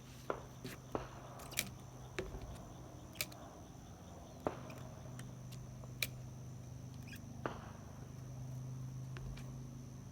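Scattered sharp clicks and taps, about eight spread irregularly, from handling a freshly caught fish and the fishing tackle while unhooking it. Behind them runs a steady high insect drone, like crickets.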